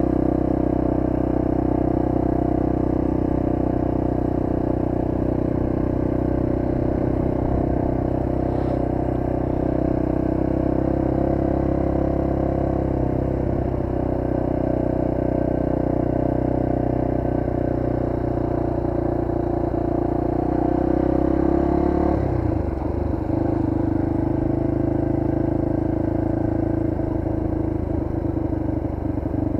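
1998 Honda XR250R's single-cylinder four-stroke engine running steadily under way. About three-quarters of the way through its note drops briefly, then settles again.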